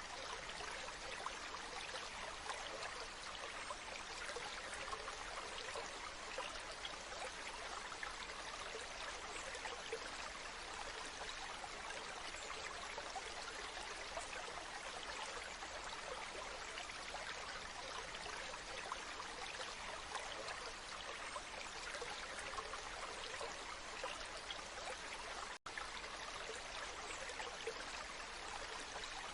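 Waterfall: water falling and splashing in a steady, even rush, with one momentary dropout near the end.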